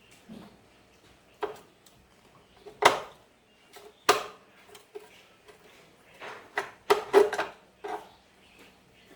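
A series of irregular knocks and clatters, the loudest about three seconds in and several close together around seven seconds in.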